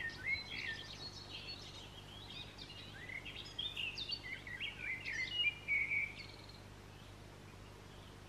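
A songbird singing a quick, varied run of chirps and short whistled glides, which stops about six seconds in.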